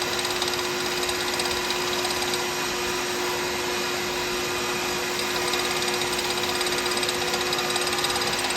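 Woodturning lathe running steadily at constant speed: an even motor hum with a steady hiss over it.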